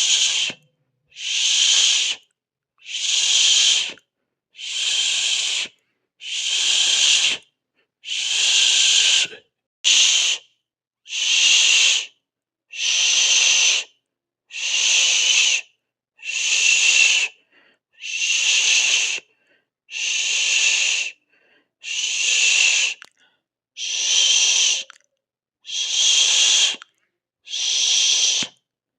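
A person hissing 'sss' through the mouth in a steady rhythm: about one hiss every two seconds, each lasting about a second, with short silences between.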